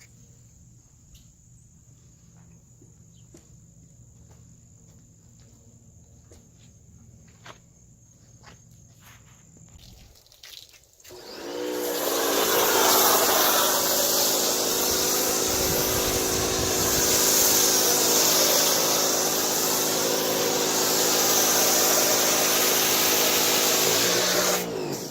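Electric pressure washer feeding a foam cannon: after some faint clicks of handling, the motor starts about eleven seconds in, rising to a steady hum over a loud spray hiss, then winds down and stops near the end.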